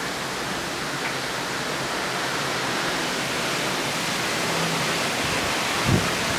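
Steady rushing noise of wind and sea heard from a cruise ship's balcony, with a brief low thump on the microphone near the end.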